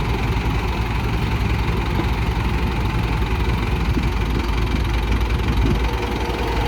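Heavy diesel engine running steadily at a low, even speed, with a constant low rumble.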